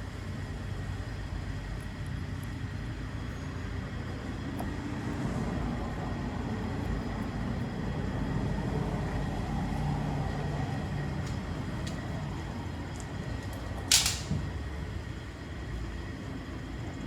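Steady low background rumble with a few faint ticks, then about fourteen seconds in one short, loud hiss: a burst of WD-40 lubricant sprayed from the aerosol can onto the door lock mechanism.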